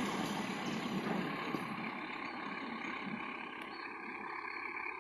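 Malabar passenger train moving away, its rumble fading steadily into a faint hiss.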